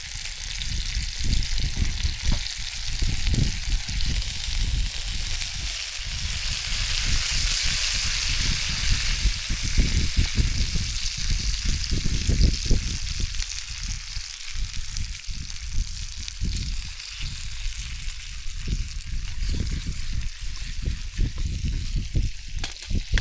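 Food sizzling in oil in a non-stick Trangia frying pan, the sizzle swelling louder about six to ten seconds in. Gusts of wind rumble low on the microphone.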